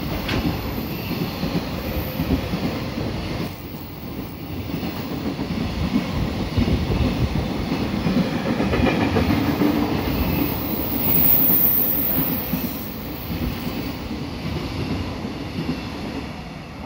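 JR Freight container train's flatcars passing at speed: steady rumble and clatter of the wagon wheels on the rails, easing off near the end as the last wagon goes by.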